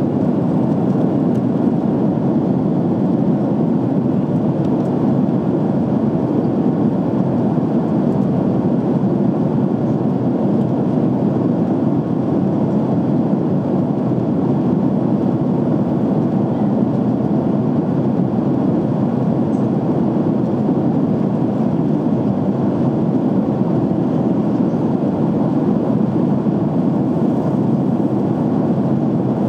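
Jet airliner cabin noise in flight: a steady, even rush of engine and airflow noise heard from inside the cabin, unchanging throughout.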